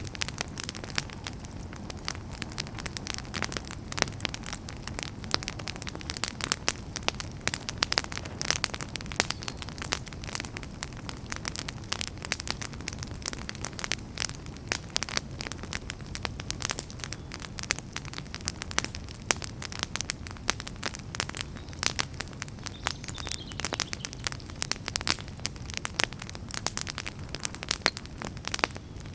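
Burning firewood crackling steadily, with many irregular sharp pops and snaps over a low, even rumble of the flames.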